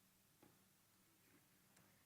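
Near silence: room tone, with two faint clicks.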